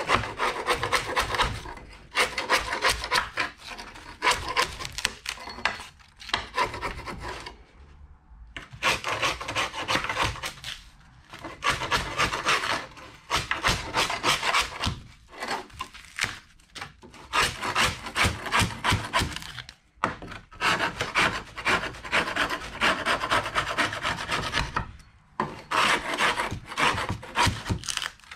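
Hand scraper scraping old carpet and glue off an aluminum boat hatch lid: quick rasping strokes in spells of a few seconds, broken by short pauses.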